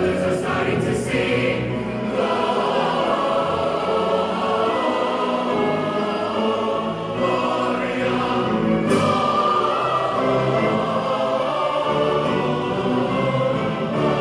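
A choir singing a Christmas song in full voice, many voices holding and moving through sustained notes together.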